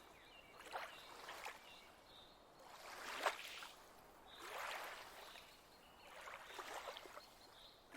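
Faint water lapping and swishing gently, in a few soft swells, the loudest about three seconds in.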